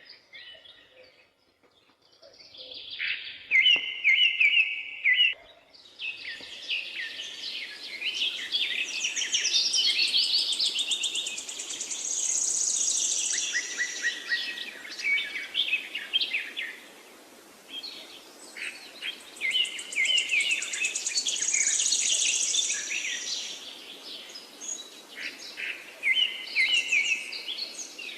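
Several birds singing and chirping, with short rapid chirps and a high trilled phrase that comes twice. A steady background hiss sets in about six seconds in, after a near-quiet start.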